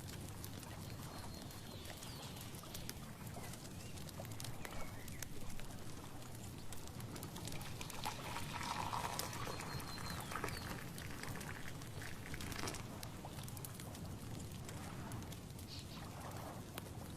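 Outdoor nature ambience: a steady hiss of background noise with a few short, high bird calls and scattered light clicks.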